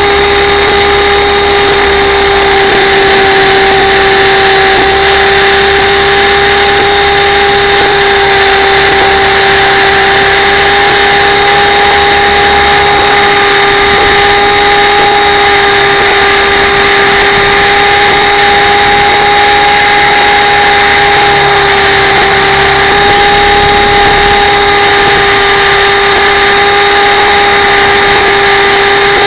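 Radio-controlled camera helicopter's motor and rotor whine, picked up close by the onboard camera: a loud, steady whine that holds one pitch throughout.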